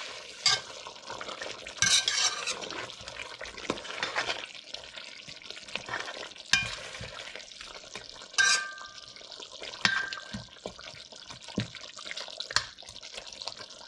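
A spoon stirring chicken curry as it fries down in a metal pot with no water added yet. The curry sizzles steadily under it, and the spoon knocks against the pot every few seconds, a few of the knocks ringing briefly.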